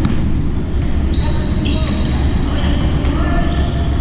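Badminton play on an indoor court: short high squeaks of shoes on the court floor and a few sharp racket hits, over a steady low rumble.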